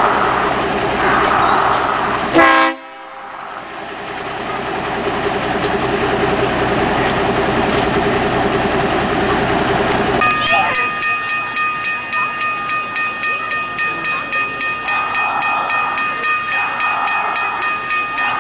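A diesel-electric locomotive's engine running, then a railroad crossing signal bell ringing at an even pace of about two to three strokes a second from about halfway in.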